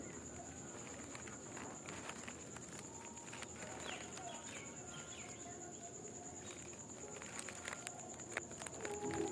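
Faint outdoor ambience: a steady high-pitched insect-like whine, scattered clicks and rustles, and a few faint short chirps around four seconds in.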